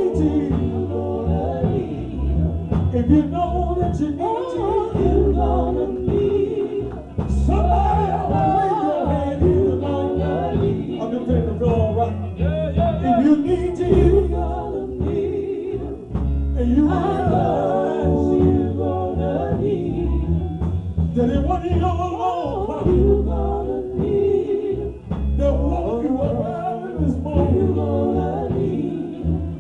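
Gospel singing: voices carrying a melody over an instrumental backing with a strong, steady bass line.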